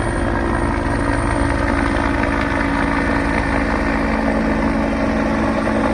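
Police helicopter flying overhead: a steady drone of turbine and rotor with a fast, even rotor chop underneath.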